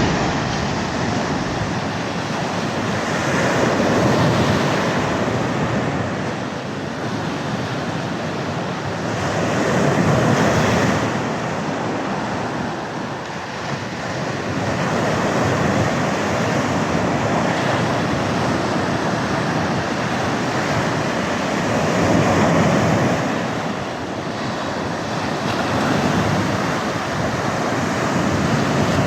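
Sea waves washing onto a shore in a steady rush, swelling and ebbing about every six seconds.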